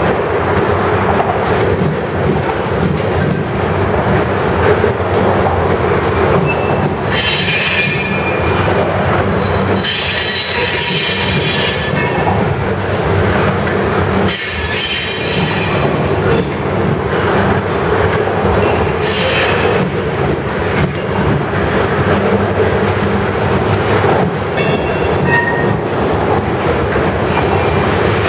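Covered hopper cars of a CSX freight grain train rolling past close by: a steady rumble and rattle of steel wheels on rail. High-pitched squeals from the cars' running gear break in several times.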